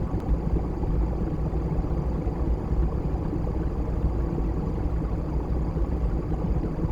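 Wind on an outdoor webcam microphone: a steady low rumble of noise that rises and falls slightly.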